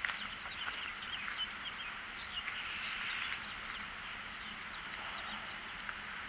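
Many birds chirping together outdoors: a dense run of short, quick chirps that is busiest a few seconds in.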